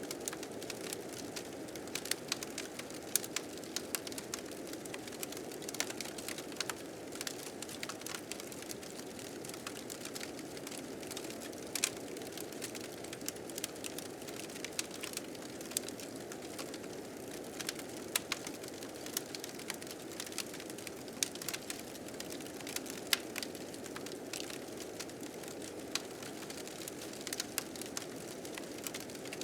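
Blizzard wind blowing steadily, with a wood fire crackling over it in frequent sharp pops, a few of them louder.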